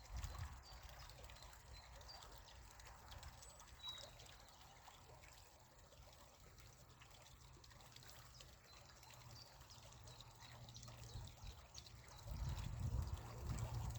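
Faint trickle of spring water running out of the ground. A low rumble grows louder near the end.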